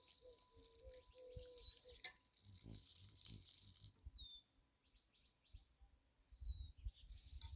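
Small birds calling, with a few short whistled notes that slide downward, over faint low knocks and rustles.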